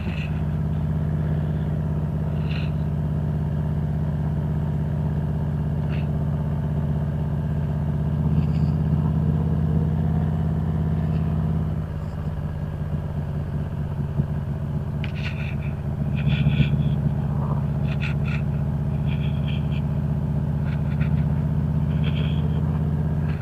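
Harley-Davidson Road Glide Special's V-twin engine idling steadily, dipping slightly about halfway through.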